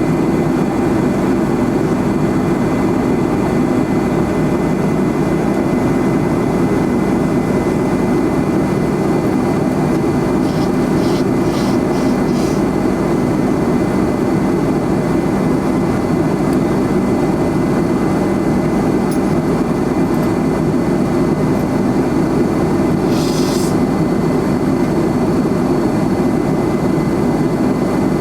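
McDonnell Douglas MD-11 jet airliner in flight, heard from inside the passenger cabin: a steady, loud roar of the engines and the air rushing past, with a thin high whine held underneath it.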